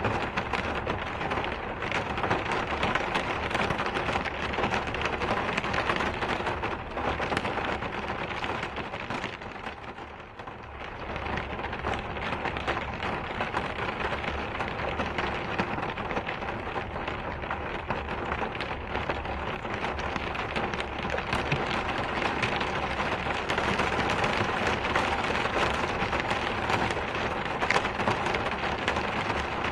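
Steady rain falling, a dense hiss of many small drop ticks. It dips briefly in loudness about ten seconds in, then comes back.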